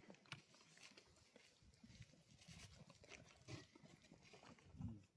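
Near silence, with faint scattered clicks and soft low knocks.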